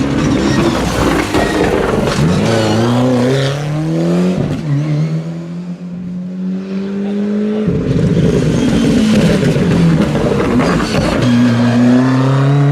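Ford Escort RS Cosworth rally car's turbocharged four-cylinder engine under hard acceleration. The pitch climbs, drops abruptly at a gear change about four and a half seconds in, holds a steadier note, then the engine goes loud again and climbs once more near the end.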